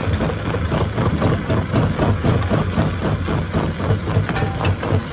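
Heavy machinery at a stone-crushing site running steadily, with a loud low, rough sound that pulses unevenly.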